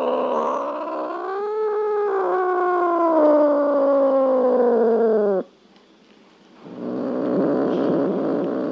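A cat's long, drawn-out meow, slowly falling in pitch, that stops abruptly about five seconds in. After a brief pause comes about two seconds of low, rough rumbling.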